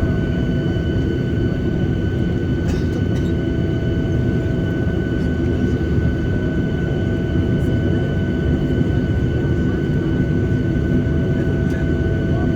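Cabin noise inside a Boeing 737-800 taxiing, its CFM56 engines running at idle: a steady low rumble with a thin, steady high whine over it.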